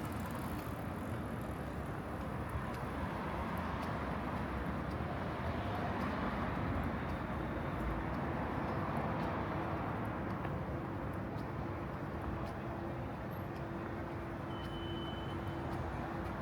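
City street traffic noise, a vehicle passing, with a low steady hum that comes in about halfway through.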